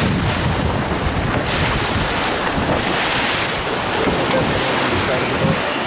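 Wind buffeting the microphone over the rush of water along the hull of a sailboat under way, a steady loud noise.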